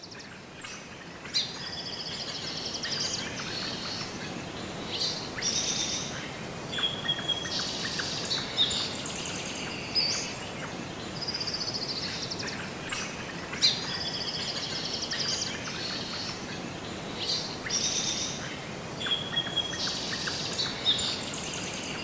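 Birds chirping and trilling over a steady background hiss. The same run of calls seems to come round again about twelve and a half seconds later.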